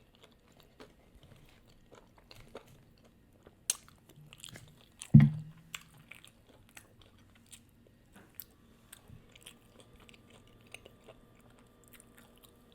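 Close-miked eating: crunchy bites and chewing of fried chicken, with scattered crisp crackles and wet mouth clicks, and one louder short low sound about five seconds in.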